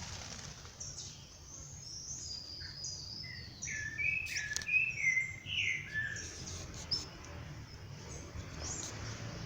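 Small birds chirping and singing: a run of short, high notes, some gliding, busiest in the middle, over a steady low background rumble.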